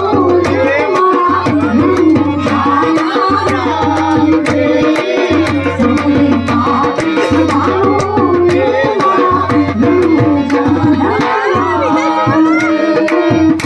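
Gujarati folk music: a dhol beats a fast rhythm under a gliding melody from a sarnai, a double-reed pipe.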